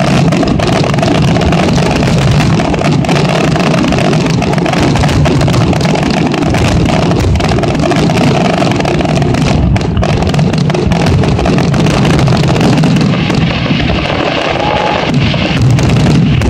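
Fireworks grand finale: rapid shell bursts and crackling salutes fire so close together that they merge into one continuous loud rumble, with sharp bangs standing out throughout.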